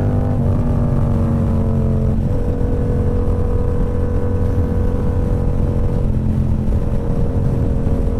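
Motorcycle engine running under way: the engine note eases down a little over the first couple of seconds, then holds steady at cruising speed, over a constant low rumble of riding wind.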